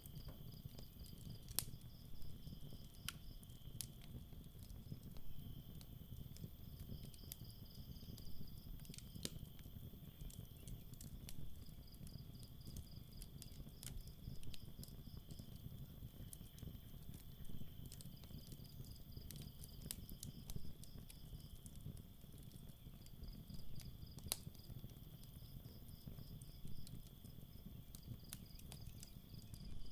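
Campfire crackling, with scattered sharp pops over a low steady rumble. Night insects chirp behind it in short pulsed runs every few seconds, over a steady high trill.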